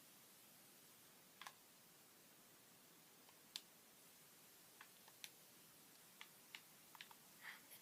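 Near silence with faint, irregularly spaced sharp clicks, becoming more frequent in the second half.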